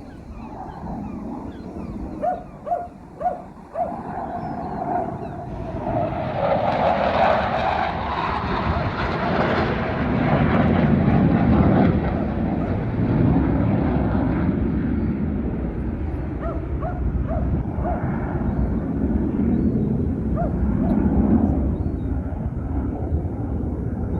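Saab Draken jet fighter's afterburning turbojet flying past: the engine noise swells from about six seconds in, with a falling whine as it passes, and stays loud. Four short calls are heard a few seconds before it.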